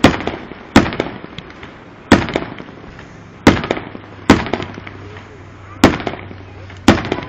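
Aerial fireworks shells bursting: seven loud, sharp bangs at uneven intervals of roughly one to one and a half seconds, each trailing off in a brief crackle and echo.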